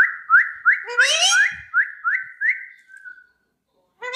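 Whistling: a run of about eight short rising whistle notes, roughly three a second, fading out near the end. A short, high, rising call breaks in over the whistling about a second in.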